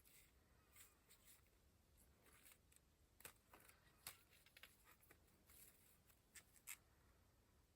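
Faint handling of paper and craft tools: scattered soft rustles and short ticks, with a few sharper clicks around the middle and later.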